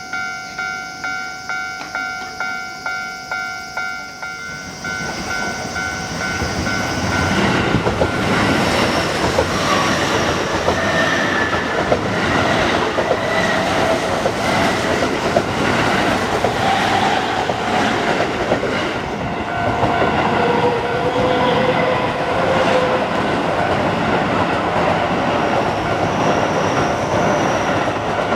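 A Japanese level-crossing alarm rings in rapid electronic dings, about two a second. From about five seconds in, an electric commuter train runs through the crossing, its wheels clattering over the rail joints and drowning out the bell.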